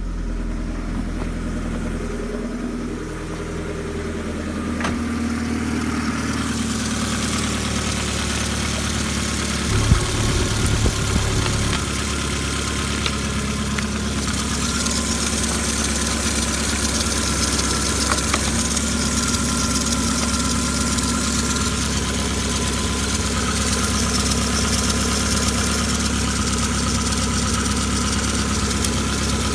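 Ford Mondeo Mk2's 1.8-litre fuel-injected four-cylinder petrol engine (code RKJ) idling steadily. About ten seconds in there is a brief unsteady patch with a few sharp knocks, after which it settles back to an even idle.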